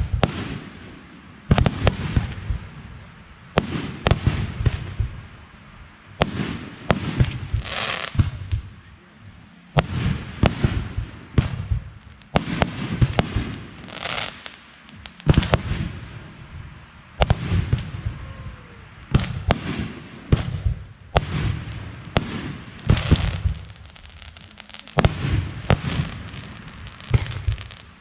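Aerial fireworks bursting in steady succession, a loud bang every second or two, several followed by a crackling tail.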